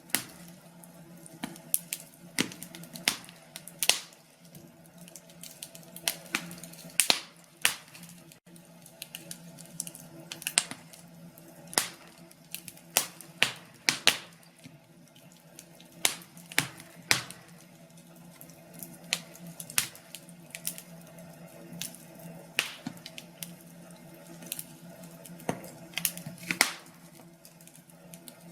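Wood fire crackling in a fireplace, with irregular sharp pops and snaps over a faint, steady background.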